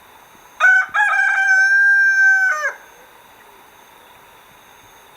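Rooster crowing once: a cock-a-doodle-doo of about two seconds, short broken notes followed by one long drawn-out note.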